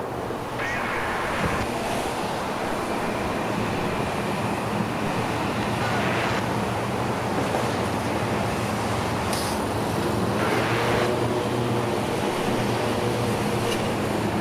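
A steady rumble of vehicles with a low engine hum, and wind gusting on the microphone a few times.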